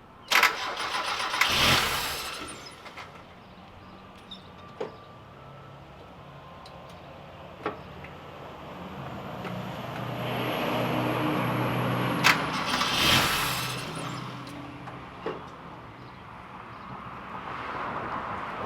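Car engine being started: it fires and runs unevenly, with two loud revs, one just after the start and one about twelve seconds in, and a few sharp clicks between.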